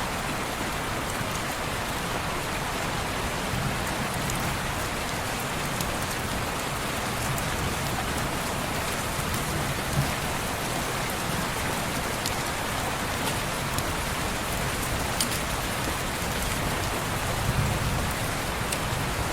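Steady rain falling on a window, an even hiss with a few scattered faint ticks.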